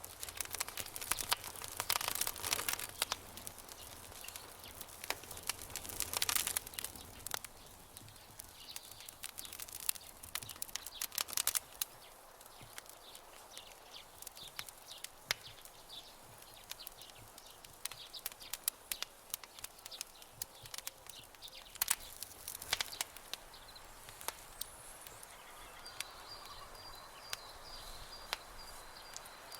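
Wood campfire crackling and popping, with sharp irregular pops that come in denser flurries at times over a soft hiss. A faint, high, evenly pulsed chirping joins for the last few seconds.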